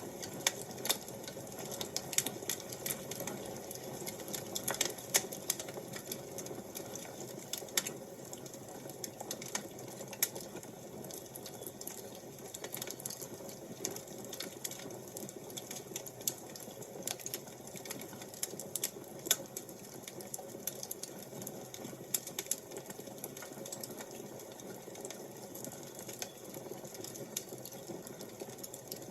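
Wood fire crackling: irregular sharp pops and snaps over a steady soft hiss, the pops coming thicker in the first ten seconds or so.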